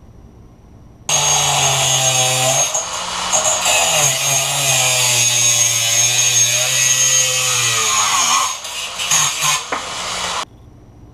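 Power tool grinding a window into a steel socket to make a valve-spring compressor. It runs at full speed, with its pitch dropping as it bites into the metal. It starts and stops abruptly.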